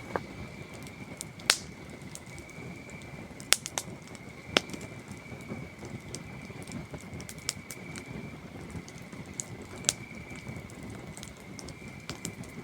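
Campfire crackling, with sharp pops scattered through, the loudest about a second and a half in, around three and a half and four and a half seconds, and near ten seconds. Under it a steady high trill of crickets.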